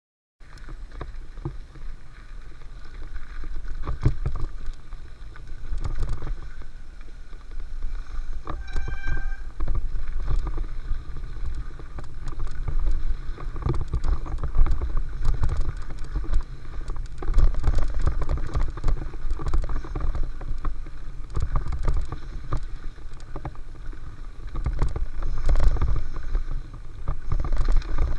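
Mountain bike riding down a dirt flow trail: a steady low rumble of wind and tyres with frequent rattles and clacks from the bike over the ground. A short high squeal about nine seconds in.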